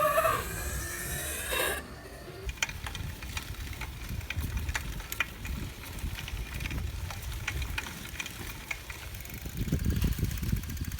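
Mountain bike being ridden: a low wind rumble on the microphone with many scattered light clicks and ticks from the bike, and a run of fine, even ticking near the end.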